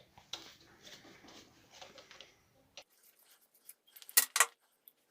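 Small clicks and scrapes of hard parts being handled, then two sharp clinks close together about four seconds in.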